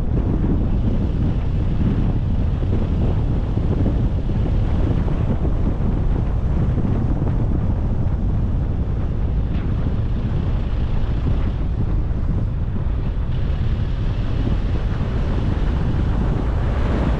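A car driving along a road: a steady rumble of wind buffeting the microphone, with road noise underneath.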